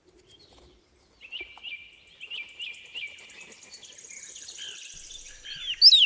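Birdsong: a run of short, evenly repeated chirps with a high, fine trill joining behind them. Near the end come loud, clear whistled notes that slide down in pitch, fitting the opening of a northern cardinal's song.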